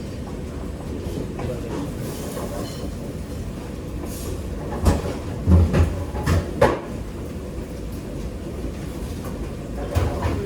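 Steady low rumble of a working kitchen, with a quick run of sharp knocks and clatters about five to seven seconds in and another knock near the end.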